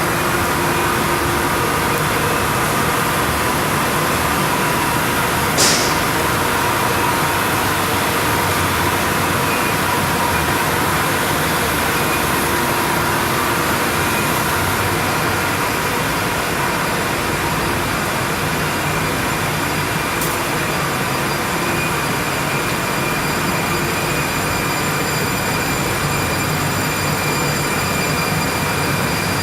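Steady, loud hum and rush of industrial machinery, the sound of a running chain-grate steam boiler plant, with a few faint steady tones over the noise. A brief sharp hiss cuts through about six seconds in.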